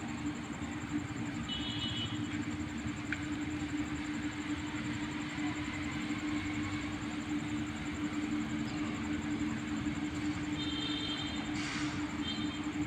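Train running through at speed: a steady rumble with a constant low hum. A few brief high-pitched tones sound about two seconds in and again near the end.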